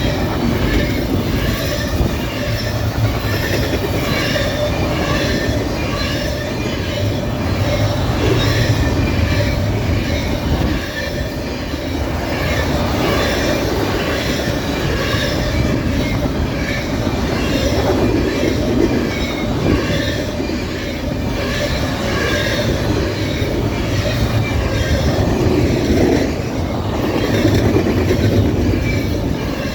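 Norfolk Southern freight train's cars rolling steadily past, steel wheels rumbling and clacking on the rails with scattered brief high-pitched wheel squeals.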